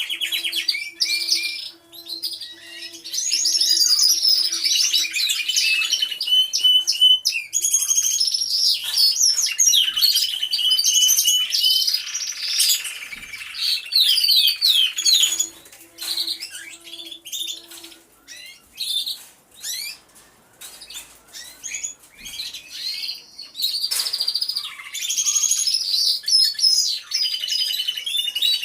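Several domestic canaries singing at once, with fast rolling trills and warbles that overlap and rise and fall. A low rapid pulsing note comes twice, at the start and again past the middle.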